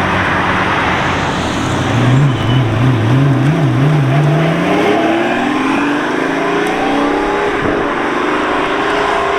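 A sports car engine revs up and down a few times, then accelerates away with a steadily rising engine note. A second rising run near the end suggests it goes up another gear.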